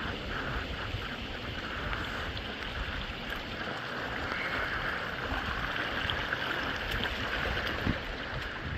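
Steady rushing hiss of water in a wet rainforest, with a low wind rumble on the microphone and one soft thump near the end.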